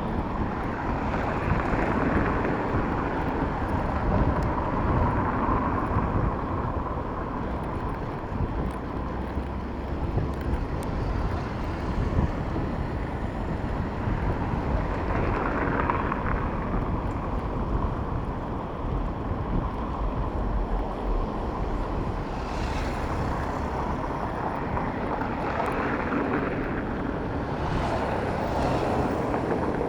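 Wind rushing over the microphone of a moving bicycle, mixed with steady road traffic that swells a few times as vehicles pass.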